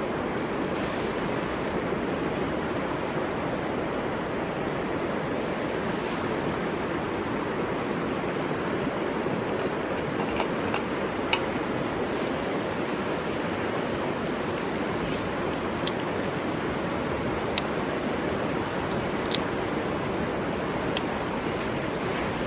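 River water flowing steadily, with a few sharp, isolated clicks in the second half.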